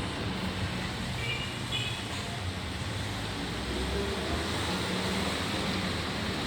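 Steady low vehicle rumble with no break, with a few faint short high chirps about a second in.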